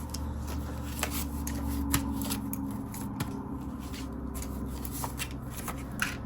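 Paper banknotes being handled and counted, with crisp rustles and light flicks scattered throughout, over a steady low hum.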